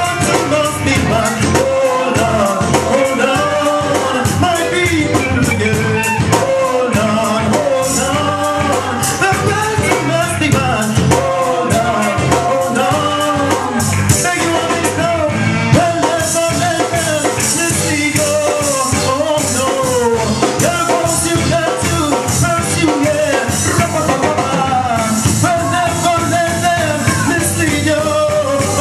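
Live reggae band playing a steady groove, with a sung melody over it.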